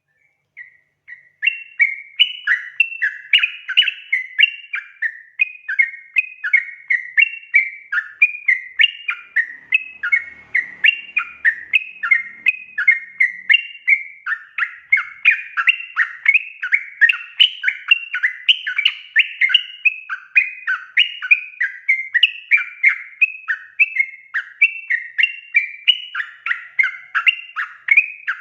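Yellow-vented bulbul (trucukan) calling without pause: loud, quick, chattering notes, several a second, that begin about a second and a half in.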